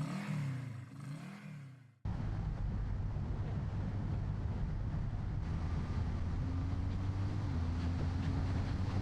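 Background music ends abruptly about two seconds in, cutting to a BMW R12 nineT's boxer-twin engine running at a steady cruise with wind and road noise. The engine note steps down slightly near the end.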